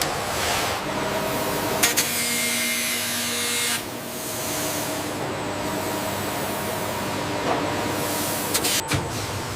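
Steady machinery noise with faint steady tones. A loud hiss starts about two seconds in and cuts off sharply near four seconds, with a few sharp clicks.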